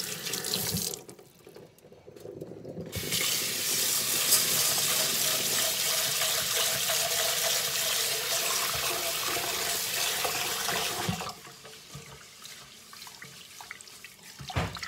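Water running from a kitchen tap into a sink. It stops about a second in, runs again steadily for about eight seconds, then is shut off.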